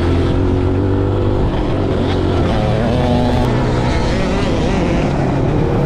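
Kawasaki KLX140G dirt bike's four-stroke single-cylinder engine running under riding, its pitch rising and falling with throttle and gear changes.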